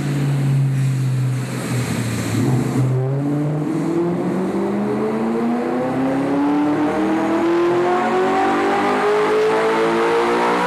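Audi R8's 4.2-litre V8 breathing through a Fabspeed Supersport aftermarket exhaust, holding steady revs, then about three seconds in going to full throttle and pulling hard. Its note climbs in one long, unbroken rise in pitch with no gearshift.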